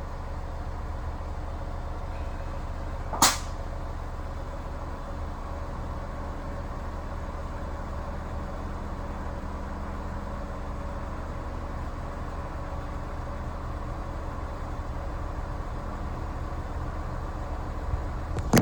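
Honda S2000 with air suspension: a steady mechanical hum, broken about three seconds in by one short, sharp burst like air being let out of a valve.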